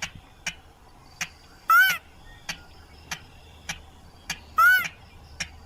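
Lure-call recording of a sintar, a rice-field rail: sharp ticking notes about every 0.6 s, with two louder, arched, ringing calls about three seconds apart.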